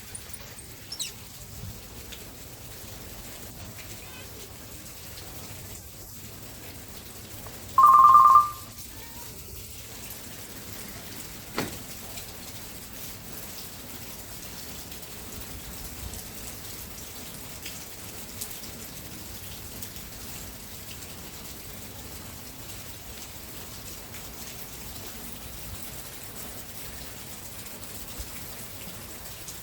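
Steady rain falling, an even hiss throughout. About eight seconds in, a single short, loud high tone cuts in briefly, and a sharp click comes a few seconds later.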